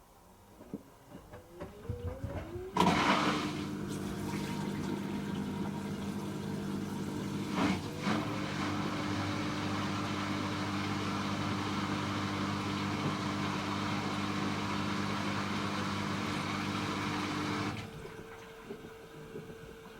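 Hoover H-Wash 300 Plus washing machine: a rising whine for a couple of seconds, then water suddenly rushing through the machine with a steady hum. The rush runs for about fifteen seconds, with a brief knock partway through, and cuts off abruptly near the end.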